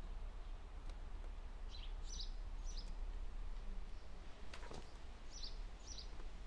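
A faint, steady low hum, with a bird giving a few short high chirps in pairs, and a single small click about two-thirds of the way through.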